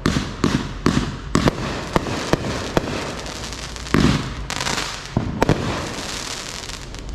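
Fireworks going off: a quick series of sharp bangs and cracks, a louder bang about four seconds in, then crackling and a few more cracks.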